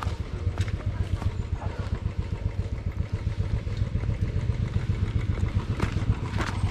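Motorcycle engine idling with a steady, fast, low throb, and a few light clicks over it.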